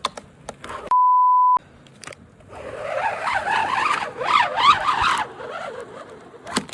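A steady beep tone for about half a second, then a few seconds of screeching, squealing noise that wavers up and down in pitch: a sticker's adhesive being peeled off the motorcycle.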